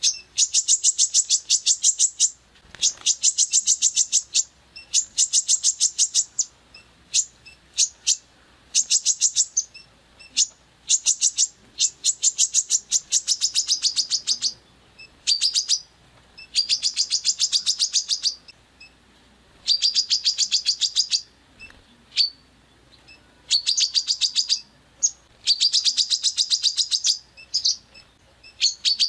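Songbird masteran (training song) of harsh rapid-fire 'tembakan' phrases: high-pitched trills of very fast repeated notes, each burst lasting a second or two, with short single notes in the gaps between.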